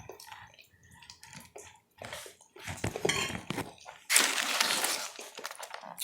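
Close-miked eating of black spaghetti noodles: a fork clinking on the plate, chewing, and small clicks for the first few seconds. Then a loud, noisy slurping rush of about two seconds.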